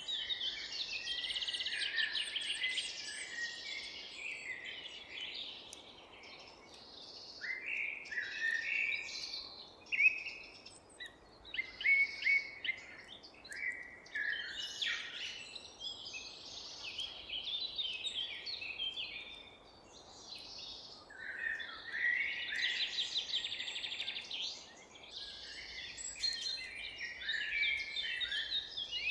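Several songbirds singing and calling at once: overlapping high chirps, rapid trills and short falling whistles, over a faint steady hiss of outdoor background noise.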